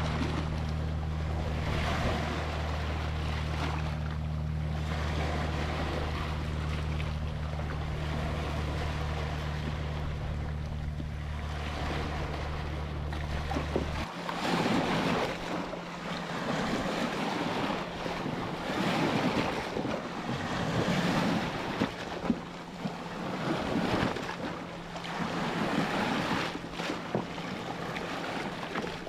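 Ocean waves washing in, the surf swelling and fading every couple of seconds. Under the first half runs a steady low hum that cuts off suddenly about halfway through.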